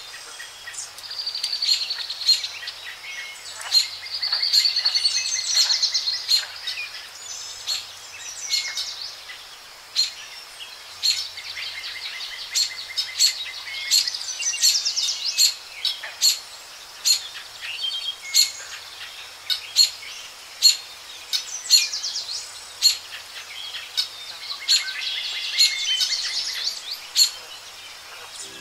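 Several birds singing and calling, with many short sharp chirps and trilling songs.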